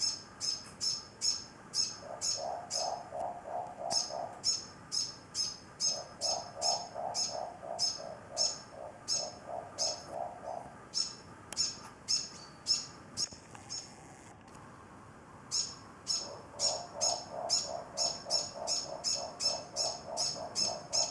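Morepork (ruru) owls calling: runs of quick, soft pulsed calls, about four a second, lasting a few seconds each and coming three times. Under them a high, short chirp repeats steadily about two or three times a second, with a brief break about 14 seconds in.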